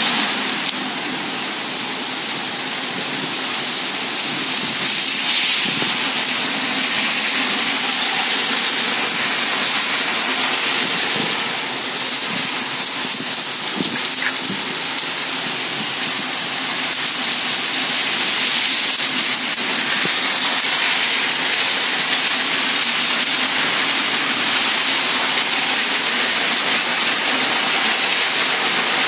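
Heavy thunderstorm rain pouring down: a loud, steady hiss with no thunderclap.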